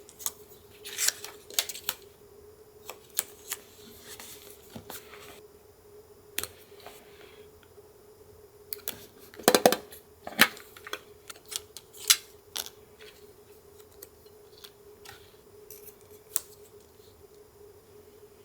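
Scissors snipping paper and paper being handled for collage: irregular short snips, clicks and rustles, loudest in a cluster about halfway through, over a faint steady hum.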